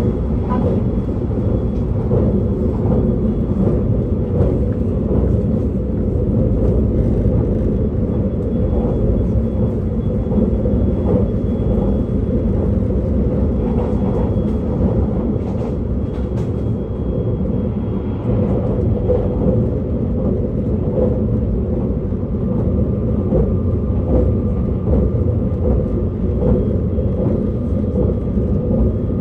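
Onboard running noise of a JR East E657 series limited express electric train: a steady rumble of wheels on rail heard inside the car, with a faint high steady tone above it.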